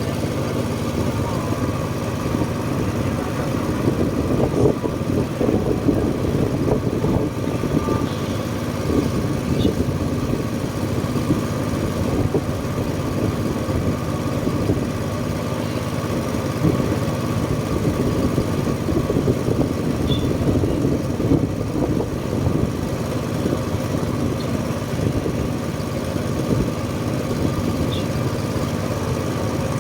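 Engine of a small sightseeing boat running steadily while the boat travels across the lake.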